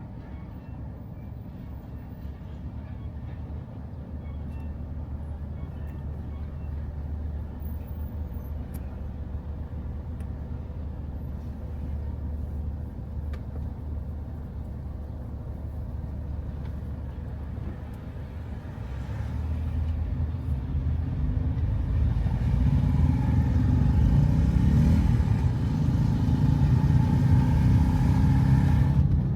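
Road vehicle noise: a car's engine and tyre rumble, growing louder about two-thirds of the way through.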